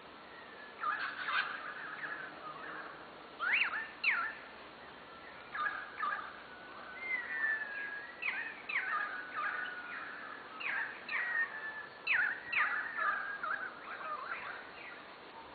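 Birds singing and calling: a steady run of short, sharp notes sweeping up in pitch, mixed with warbling phrases.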